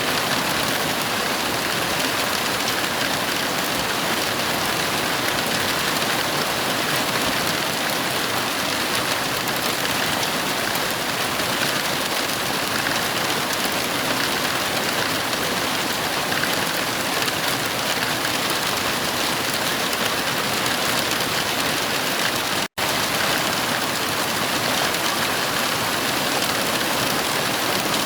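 Heavy rain falling as a steady, even hiss with no thunder. About three-quarters of the way through, the sound cuts out for a split second and resumes at once.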